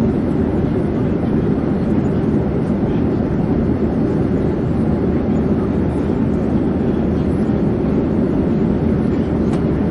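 Airplane in flight: a steady, even rumble and rush that does not change in pitch or loudness.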